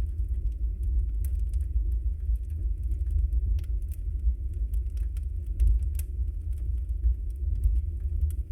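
Wood fire burning in a fireplace: a steady low rumble with many small, sharp crackles and pops scattered irregularly throughout.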